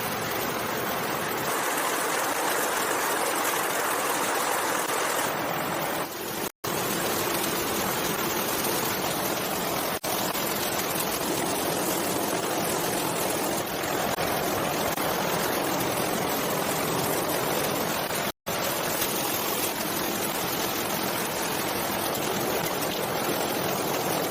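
Steady rushing water, like a stream. It drops out briefly twice, about six and eighteen seconds in.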